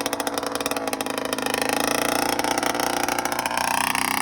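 1997 Kawasaki KX60's small two-stroke engine running steadily as the dirt bike is ridden.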